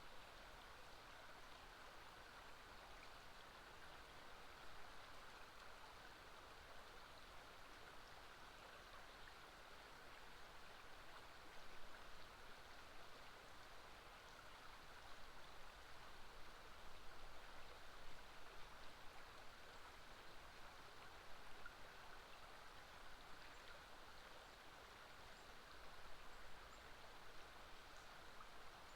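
Faint, steady flow of river water.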